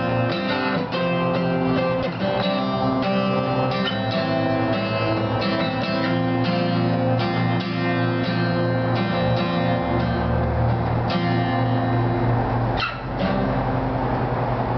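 Acoustic guitar being strummed and picked through chords with no singing, the instrumental ending of a song, with a brief break in the playing near the end.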